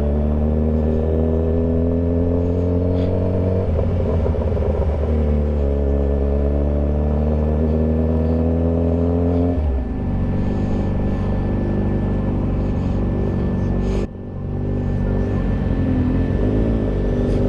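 Motorcycle engine pulling under acceleration, its pitch climbing steadily. There is a short break and drop a little under four seconds in, like an upshift, then it climbs again. Near ten seconds the pitch drops sharply and the engine runs lower and steadier.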